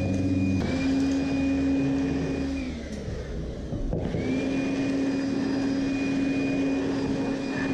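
Makita 18V cordless stick vacuum switched on twice: its motor whine runs up, holds steady, and winds down in pitch each time, the second run lasting a little longer than the first.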